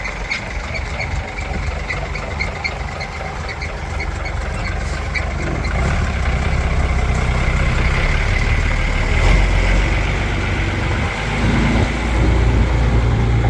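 Iveco 75E15 horsebox's diesel engine running with its exhaust front pipe snapped through, a rapid light ticking over the first few seconds, then getting louder about halfway in as the truck is driven.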